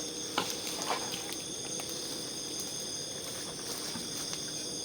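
Steady chorus of night insects, several high trilling tones held unbroken, with a few scattered sharp crackles from the wood cooking fire.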